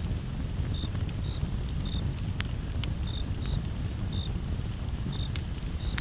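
Campfire crackling with scattered sharp pops over a low steady rumble, while crickets give short chirps a little more than once a second against a steady high insect hiss.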